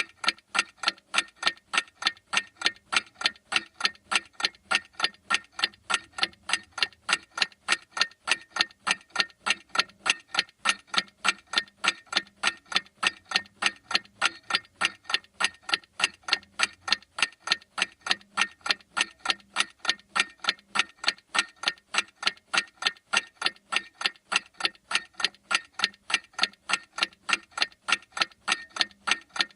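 Clock ticking steadily, with even, sharp ticks about two a second.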